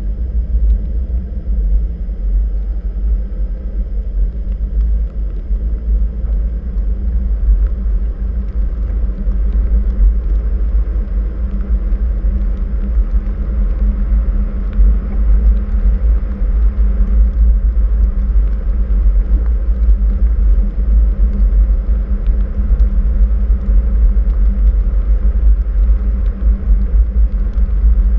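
Steady low rumble of a car driving on snow-covered roads: tyre and road noise with engine hum.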